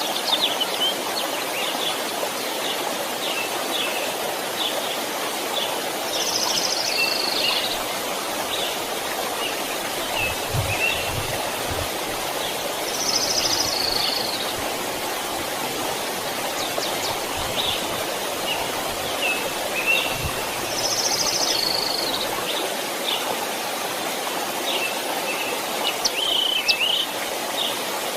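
A stream running steadily, with birds chirping throughout; one bird repeats the same short call three times, about seven seconds apart.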